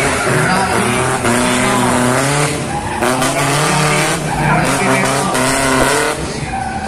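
Slalom car's engine revving up and down repeatedly as it is driven hard through the cones, with tyres skidding.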